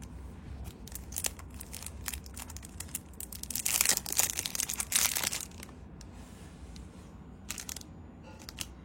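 Packaging crinkling and rustling as it is handled, with scattered small clicks and taps. It is loudest for about two seconds in the middle.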